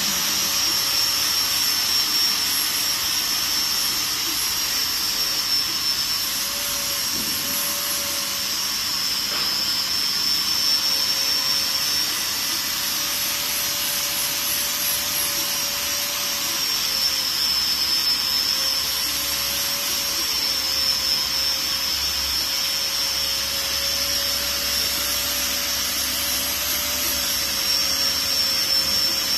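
Steady machine noise: an even hiss with a high whine and a lower hum, both wavering slightly in pitch.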